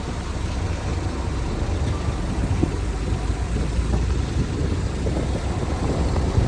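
Heavy diesel engine of earth-moving machinery running steadily at a low idle-like rumble, with a few faint knocks.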